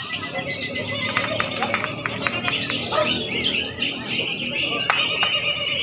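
Many caged songbirds singing and chirping at once, a dense overlapping chorus of competing songs, with a short run of sharp clicks in the first half.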